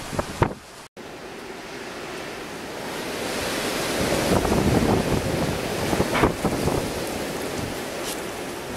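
Blizzard wind with surf, a steady roar that swells about four seconds in and then eases, with wind thumping on the microphone.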